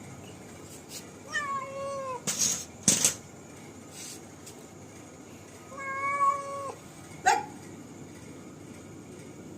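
A domestic cat gives two long, drawn-out meows a few seconds apart, with short sharp clicks or knocks, the loudest sounds, just after the first meow and again after the second. The cat is said to be very scared of a rat.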